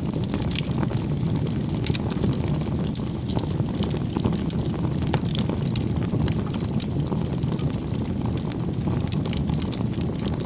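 Wood fire burning: a steady low rush with many small, irregular crackles and pops.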